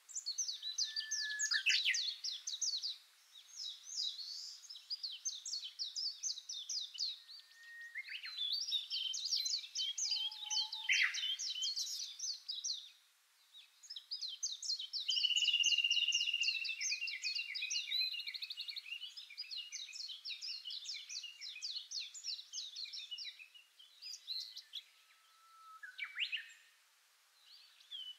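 Songbirds singing in fast chirping trills, phrase after phrase with short pauses between them, with a held whistle about halfway through.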